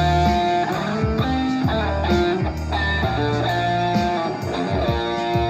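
PRS 513 electric guitar playing improvised pentatonic lead lines in the key of B flat, with sustained low bass notes underneath.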